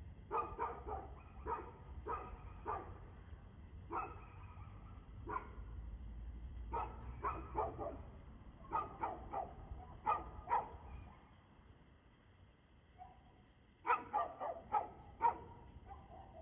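Dog barking over and over in quick runs of two to four barks, with a pause of a few seconds before a last run near the end.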